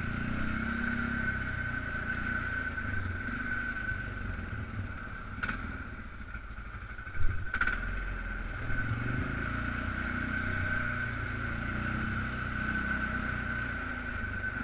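Polaris Sportsman 500 ATV's single-cylinder four-stroke engine running at low speed, with a steady high whine over it. A couple of sharp knocks come about five and a half and seven and a half seconds in.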